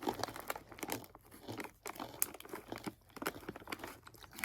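Snack packaging crinkling and rustling as it is handled and opened, with irregular quick crackles and a brief tearing sound.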